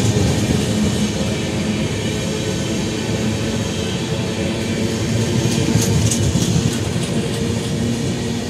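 Passenger coaches of an express train rolling past at speed: a steady rumble and clatter of steel wheels on the rails, with a short burst of higher-pitched rattling about six seconds in.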